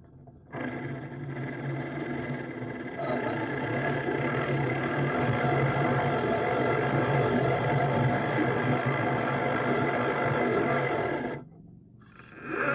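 Electric motor and gears of a radio-controlled construction model running steadily with a high whine, then cutting off suddenly near the end.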